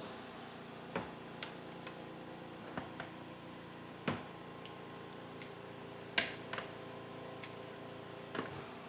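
A spoon or fork clinking lightly against a bowl of pasta, about nine irregular taps, the clearest about four and six seconds in, over a faint steady appliance hum.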